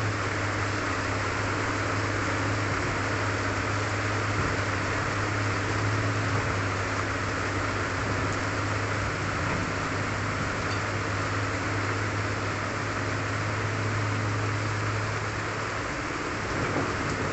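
Heavy tropical rain falling steadily, a dense even hiss, with a steady low hum underneath that fades about sixteen seconds in.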